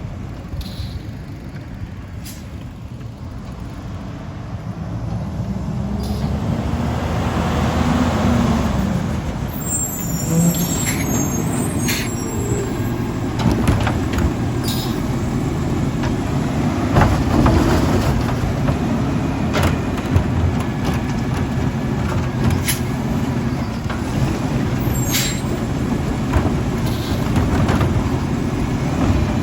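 Autocar ACX recycle truck with a Labrie Helping Hand side loader: its diesel engine running and growing louder over the first several seconds, with an air brake squeal and hiss about ten seconds in, then scattered knocks and clanks over the engine.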